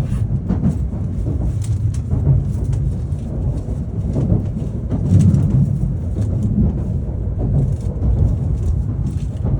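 E7 series Shinkansen train running: a steady low rumble with faint scattered rattles and no chime.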